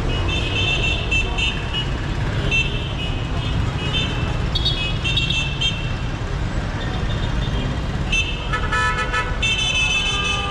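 Dense city street traffic running steadily, with vehicle horns honking again and again in short toots and one longer horn blast near the end.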